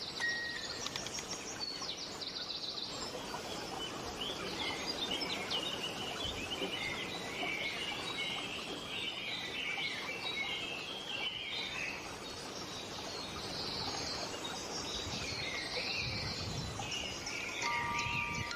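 Many songbirds chirping and singing over a steady background hiss, like a nature recording. Near the end, a few clear music-box notes come in.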